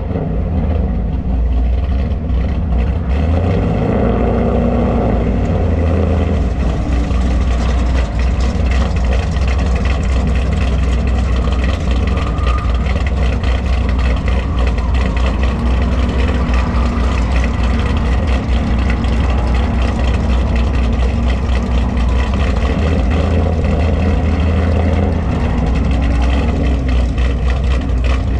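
Car engine running steadily at low revs, a deep, loud rumble with a few small rises and falls in pitch.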